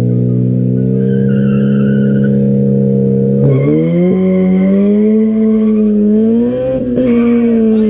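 Honda sedan's engine held at steady high revs on the drag-strip start line, then launching about three and a half seconds in and revving hard as it pulls away, its pitch climbing and then dipping at a gear change.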